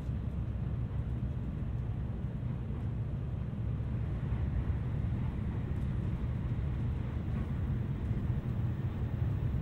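Steady low rumble of a Tokaido Shinkansen train running, heard from a passenger seat inside the cabin.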